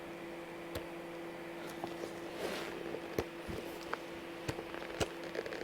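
Utility knife trimming the overhanging edge of a newly glued rubber boot sole: scattered small clicks and snips, about a dozen, over a steady low hum.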